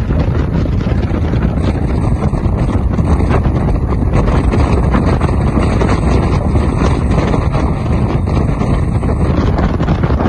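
Loud, steady wind buffeting the microphone: an even low rushing noise with no engine note or separate events.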